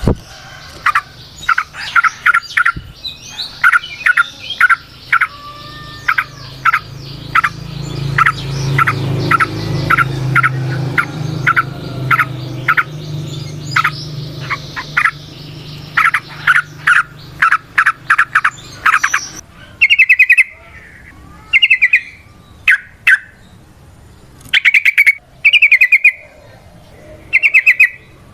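Yellow-vented bulbul (trucukan) calling: a run of short, sharp chirps, then from about twenty seconds in, short rapid trilled bursts. A low hum sits under the calls through the middle stretch.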